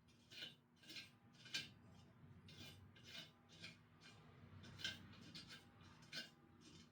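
Faint, irregular scraping or rubbing strokes, about one a second, the loudest near the start and around the middle.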